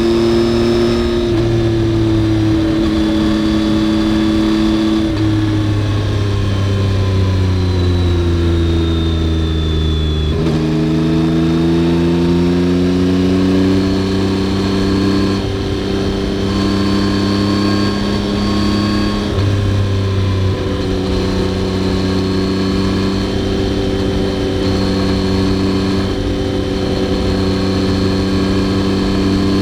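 Yamaha XSR900's inline three-cylinder engine running under way. The revs fall steadily for about five seconds, pick up again about ten seconds in, then hold fairly steady.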